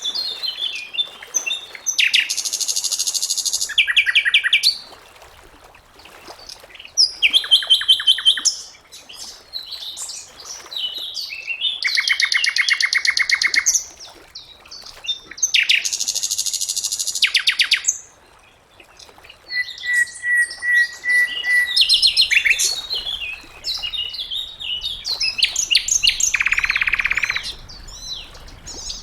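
Sikatan londo, a flycatcher, singing: loud phrases of fast trilled and repeated notes, separated by short pauses. About two-thirds of the way through comes a held, steady whistle.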